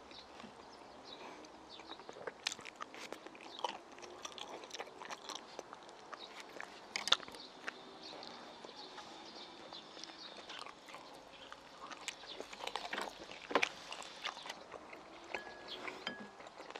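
Close-up eating sounds of a man chewing pepper japchae and a soft steamed flower bun: irregular wet mouth clicks throughout, with two sharper clicks about seven and thirteen seconds in.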